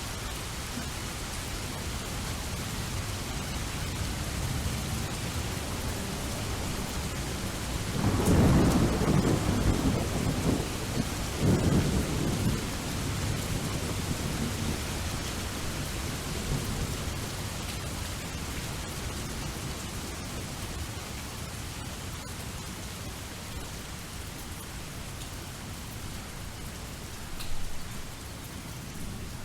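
Steady rain with a roll of thunder that begins about eight seconds in, swells twice, and rumbles away over several seconds.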